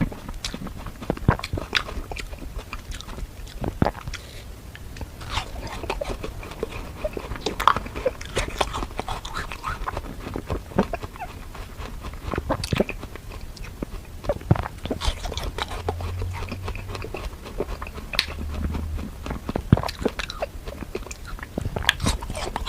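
Close-miked biting and chewing of frozen fruit: irregular crisp crunches and crackles, one after another.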